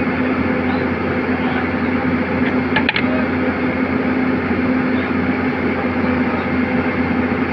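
Excavator's diesel engine running at a steady pitch, with a few short clicks about halfway through.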